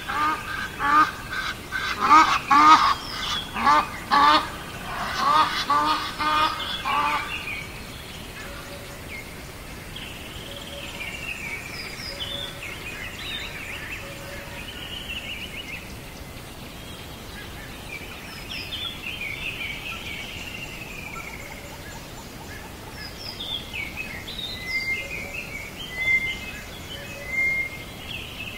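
Birds calling: a loud run of rapid, repeated harsh calls for the first several seconds, then fainter chirps and short gliding whistles.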